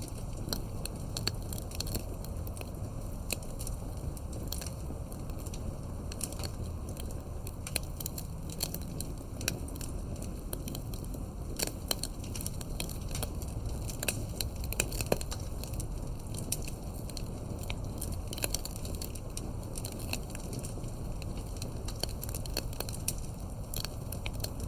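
Campfire of burning firewood crackling, with irregular sharp pops, a few louder ones, over a low steady rumble of the flames.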